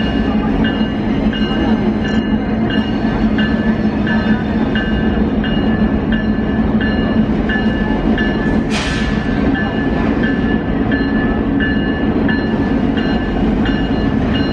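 Train rolling past with a steady heavy rumble while a level-crossing bell rings in an even beat, a little under two strokes a second. A brief hiss cuts through about nine seconds in.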